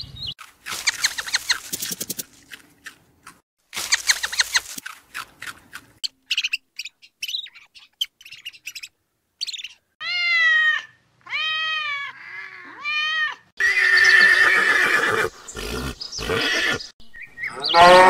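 Kitten meowing three times, each a short cry that rises and falls in pitch, after a run of scattered clicks and knocks. A cow starts to moo right at the end.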